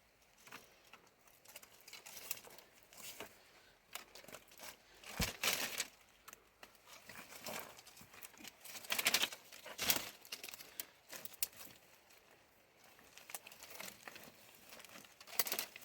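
Irregular rustling and crinkling with scattered light knocks and clicks, as of things being handled, with a sharper knock about five seconds in and louder rustles around nine to ten seconds in.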